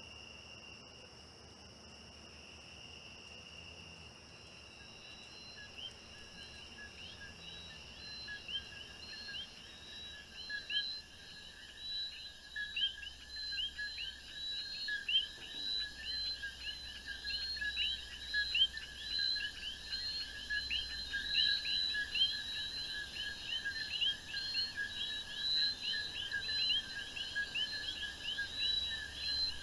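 Night chorus of crickets and frogs. A steady high cricket trill is joined a few seconds in by a dense run of rapid, repeated chirping calls that grow louder.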